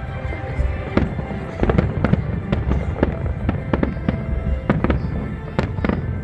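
Aerial fireworks shells bursting in quick, irregular succession, about two sharp bangs a second, with music playing underneath.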